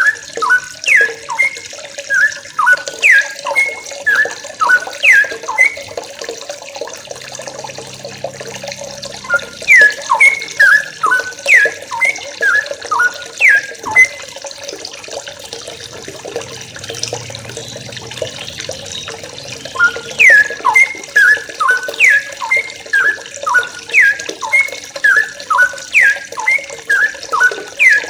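A group of yellow-vented bulbuls (trucukan) calling in rapid runs of sharp, downward-sliding chirps. The chirps thin out a few seconds in and again in the middle before picking up once more. Running water hisses steadily underneath.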